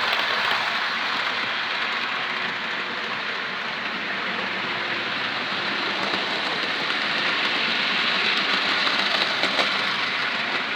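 Model railway locomotive running along the track: a steady whir of its small motor with wheel-on-rail noise, a little louder about eight seconds in.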